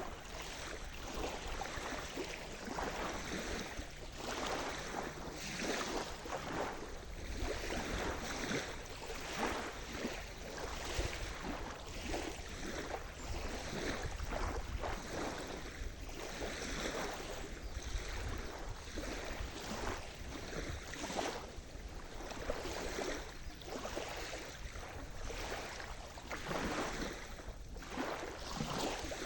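Surf washing on a shore: small waves break and hiss up the beach one after another, every second or two, over a steady low rumble of the sea.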